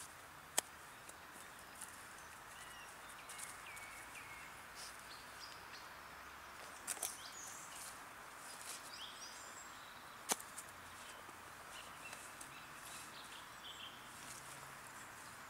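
Outdoor ambience: steady background noise with birds chirping now and then, and a few sharp clicks, the loudest about half a second in and another about ten seconds in.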